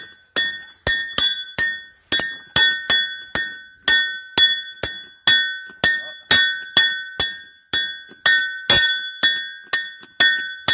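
Hammer blows on hot metal over an anvil, a steady rhythm of about two to three strikes a second, each blow ringing with a clear metallic tone.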